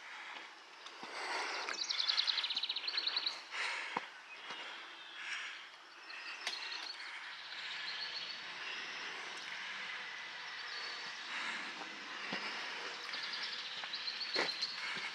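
Birds singing, with a fast high trill in the first few seconds, over outdoor ambience. About halfway a steady distant rumble sets in, most likely a passing train, and a few sharp ticks stand out.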